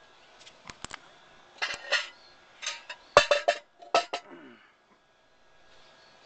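Metal clanking and rattling in several quick clusters over about four seconds as the smoked pork butt is taken out of the Bradley smoker.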